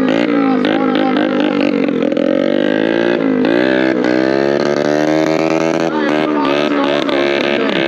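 Small minibike engine being revved up and down during stunt riding, its pitch rising and falling several times, with a sharp drop and climb about three and a half seconds in.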